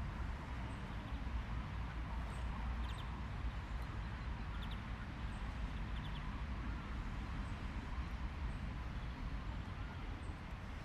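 Outdoor nature ambience: a steady low rumble and hiss with a few faint, brief high chirps.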